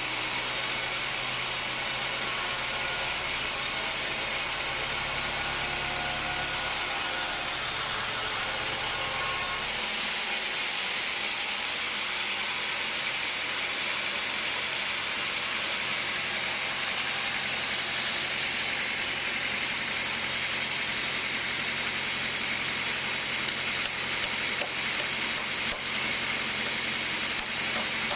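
Sawmill machinery running: a steady, even hiss with a low hum underneath that drops away about ten seconds in.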